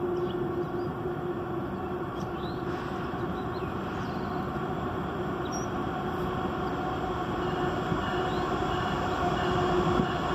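Diesel freight locomotive approaching from a distance: a steady rumble with a held engine hum, growing slightly louder near the end.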